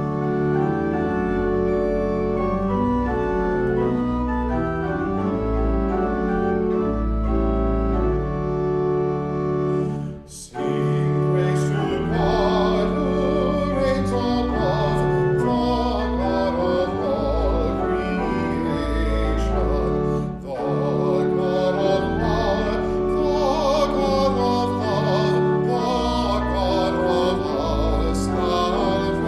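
Organ playing sustained hymn chords; after a short break about a third of the way in, a voice with vibrato sings over the organ.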